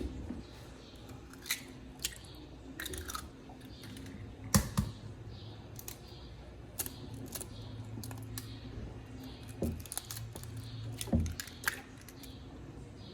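Irregular light clicks and knocks of things being handled in a kitchen, about a dozen scattered strikes over a faint low hum, the loudest about four and a half seconds in.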